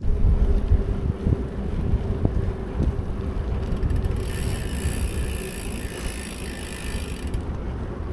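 Bicycle riding along a trail: heavy wind buffeting on the microphone and tyre rumble, with small knocks and rattles. A high hiss joins in about four seconds in and stops about three seconds later.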